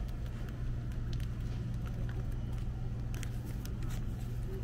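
A steady low hum with scattered faint clicks and rustles.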